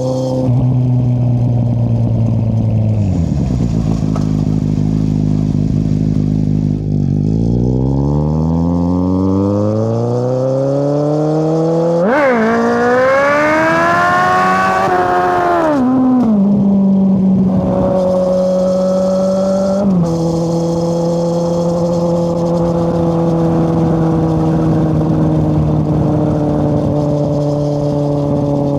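2013 Kawasaki Z800's inline-four engine running through an Akrapovic exhaust with the dB killer removed. The engine note falls about three seconds in, climbs steadily from about seven seconds, revs up hard around twelve seconds and drops back near sixteen, then holds a steady note with a small step down near twenty seconds.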